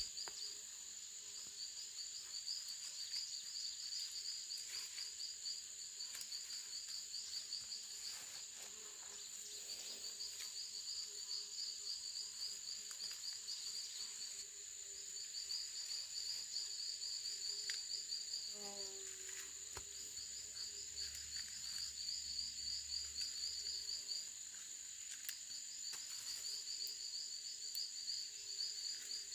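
Insect chorus: a steady high-pitched drone with rapid pulsing chirps in repeated bouts of a few seconds each.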